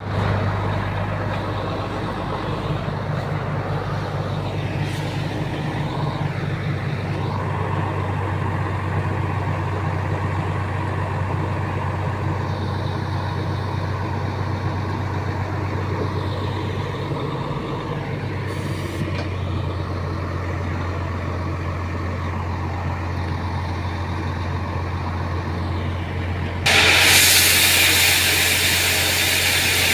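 Heavy truck's diesel engine running with a steady low hum. Near the end a loud hiss sets in suddenly and carries on over the engine.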